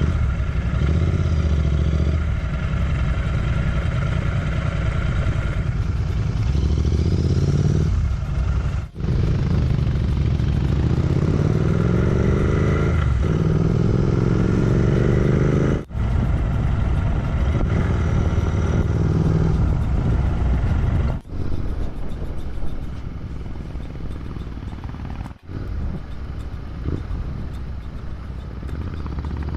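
Motorcycle engine running while riding, with wind and road noise; the engine pitch climbs as it accelerates about a third of the way in. The sound breaks off abruptly for an instant four times.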